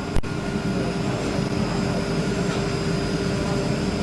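Woodworking panel machinery running steadily, a constant hum with a steady whine over it. A brief dropout about a quarter second in, then it runs on unchanged.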